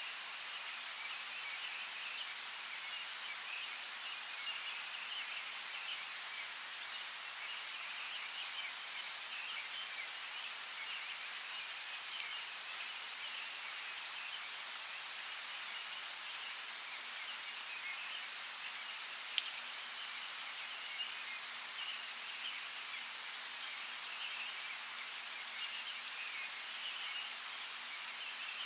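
Steady rain with a few sharp single drops standing out, about three seconds in and twice more after the middle, over a continuous chatter of chirping birds.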